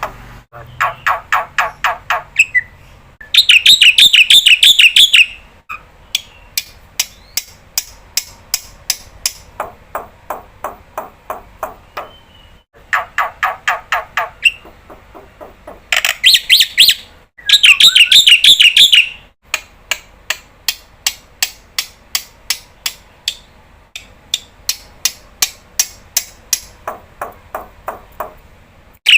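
Jalak putih (black-winged myna) calling vigorously in long runs of quick repeated notes, about four to five a second, broken three times by loud, harsh chattering outbursts.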